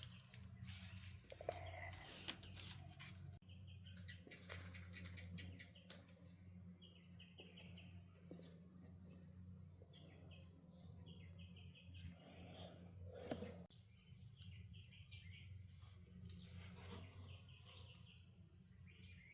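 Faint rural background: a small bird chirping in short quick runs of notes every few seconds over a low steady hum, with light ticking in the first few seconds.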